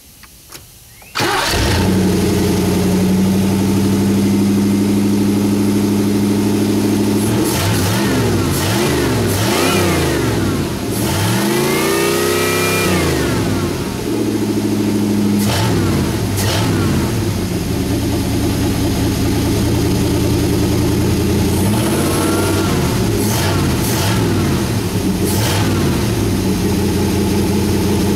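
Chevrolet small-block 305 HO 5.0 L V8 with an Edelbrock four-barrel carburettor firing up about a second in and settling into a steady idle. It is revved up and back down several times in the middle and again near the end.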